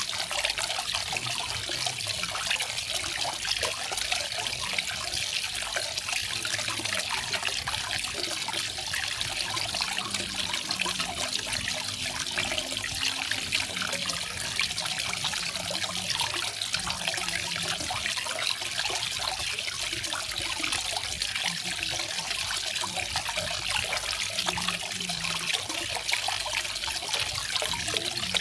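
Garden waterfall: water falling and splashing in a steady, unbroken hiss, strongest in the higher pitches.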